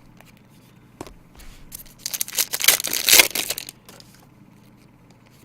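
Card packaging crinkling and tearing for about a second and a half, starting about two seconds in, after a few light handling clicks.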